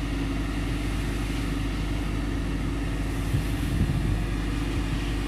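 Fire engine's engine running with a steady low drone.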